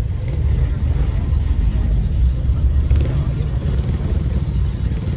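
Car engines idling, a steady, deep low rumble.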